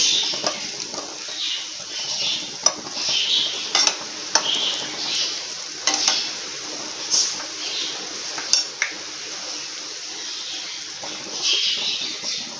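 Gulab jamun dough balls frying in oil in a pan over a moderate flame, a steady sizzle, with several sharp clicks of a steel spoon knocking the pan as the balls are turned.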